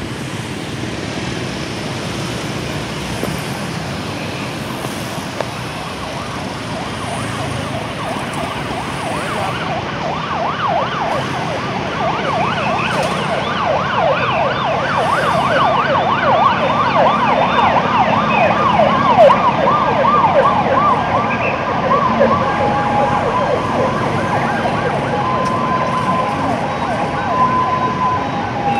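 Fire engine sirens wailing in a fast yelp, rising and falling several times a second, growing louder as the trucks approach, over steady street traffic noise. Toward the end the sweeps give way to short steady tones.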